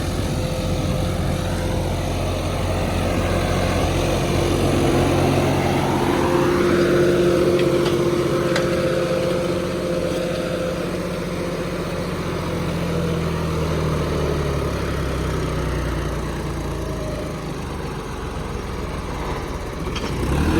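John Deere tractor's diesel engine running steadily in third gear, its speed rising and falling slightly.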